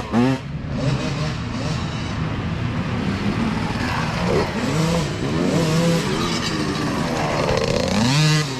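Several mini dirt bike engines revving and shifting up and down in pitch as they race past, with one revving up steeply near the end.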